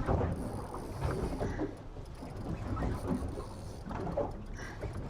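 Wind and water noise aboard a small boat on choppy sea, an uneven rushing that rises and falls.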